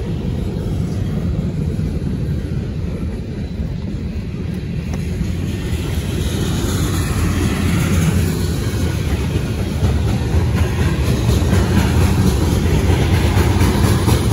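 Freight cars of a mixed manifest train rolling past on the rails: a steady low rumble that grows louder in the second half.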